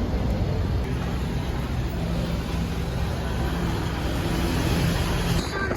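A motor vehicle's engine and road noise heard while riding along: a steady low rumble with a humming tone, cutting off abruptly near the end.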